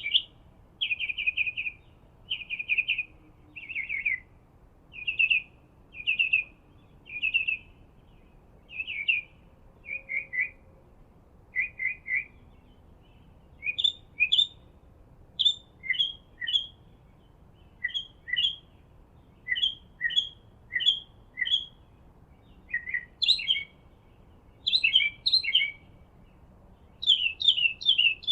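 A small songbird chirping in short repeated phrases, about one each second. For the first half the phrases are quick buzzy notes. From about halfway they turn into sharper chirps that jump between a lower and a higher pitch.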